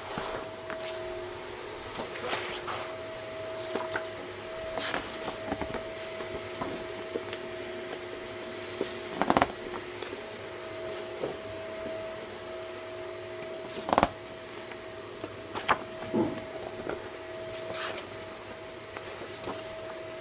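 A steady mechanical hum holding two pitches, with a few sharp clicks and knocks scattered through it, the loudest about nine and fourteen seconds in.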